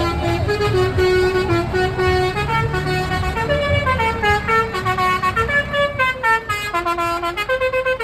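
A horn-like sound playing a tune of short stepped notes, over a low rumble in the first half; the notes grow shorter and quicker in the second half.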